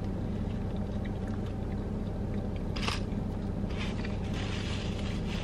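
Mouth noises of someone eating a crispy hot honey chicken sandwich: biting and chewing, with one sharp crunch about three seconds in. A steady low hum from the car cabin runs underneath.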